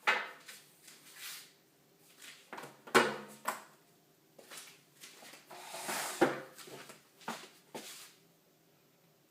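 Handling noise: a string of irregular knocks, clicks and short rustles, the sharpest knock about three seconds in, dying away near the end.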